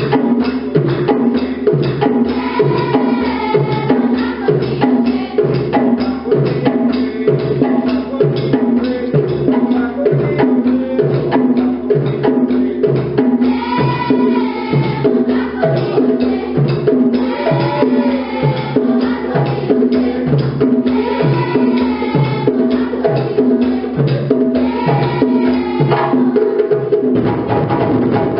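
Ensemble of djembe hand drums playing together in a dense, continuous rhythm over a steady low beat of about two strokes a second.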